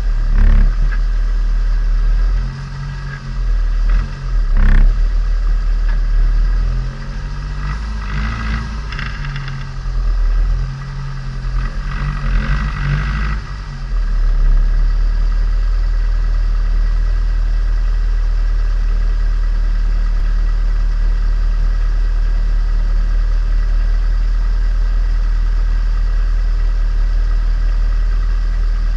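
Turbocharged Nissan Micra engine running in after a rebuild. Its revs rise and fall through the first half, then it settles into a steady low drone from about halfway on.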